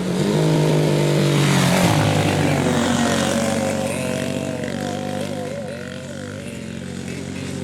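Café racer motorcycle engines running hard on a dirt track. The engine note is loudest from about half a second to two seconds in as one bike passes close, then eases off while other bikes keep running.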